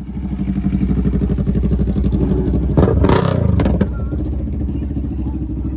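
A loud engine running with a rapid firing pulse, revved hard for about a second about three seconds in, then dropping back, as in a rev contest between a car and a motorcycle.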